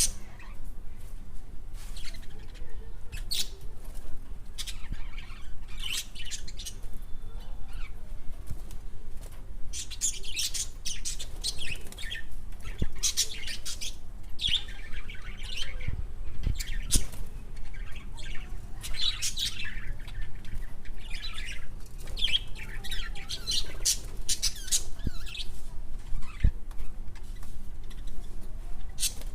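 A bird or birds chirping and squawking in many short, irregular calls, busiest in the second half.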